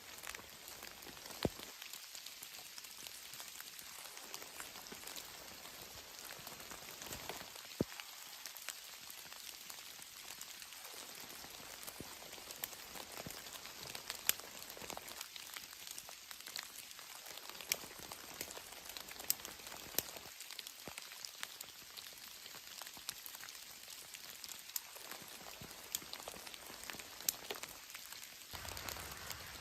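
Steady rain falling, a continuous hiss scattered with sharp ticks of individual drops striking a surface.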